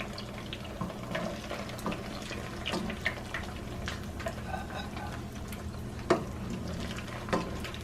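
Corn tortilla frying in hot oil in a pan: a steady sizzle with scattered sharp crackles and ticks, and one louder tick about six seconds in.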